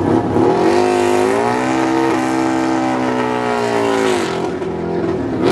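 Harley-Davidson Destroyer drag bike's V-twin revving up, held at high revs for about three seconds, then dropping back during a burnout.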